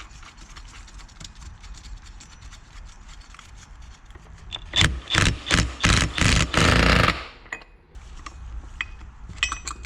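Light metallic clicks as the clutch hub nut is started, then an impact wrench fired in five or six short bursts and one longer burst about five seconds in, running the nut down onto the clutch hub.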